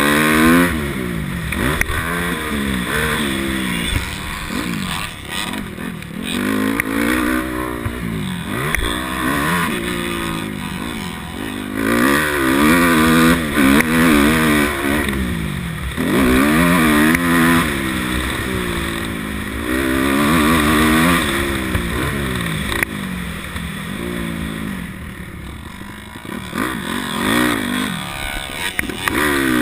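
A 250 cc motocross bike's engine being ridden hard, its pitch repeatedly climbing under throttle and dropping back every second or two as the rider works through the gears and terrain.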